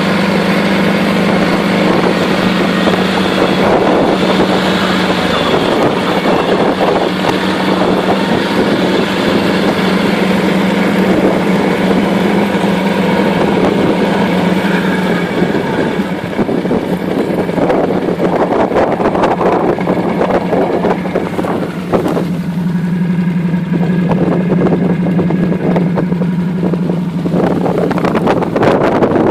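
A tracked ATV's 1000 cc V-twin engine running, its note steady at first, then rougher and uneven past the middle, and steady again near the end.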